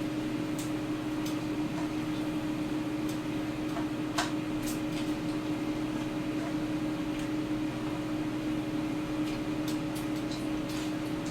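Air fryer running: a steady fan hum with a low tone, and a few faint ticks scattered through it.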